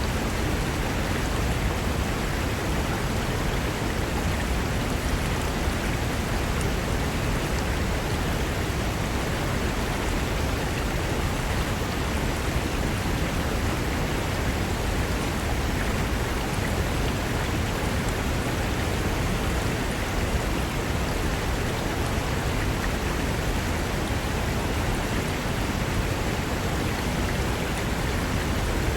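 Mountain river rushing over rocks: a steady, unbroken wash of water.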